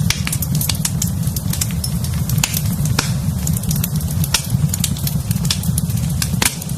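Fire burning in a fireplace, crackling and popping at irregular intervals over a steady low rumble, with one sharper pop near the end.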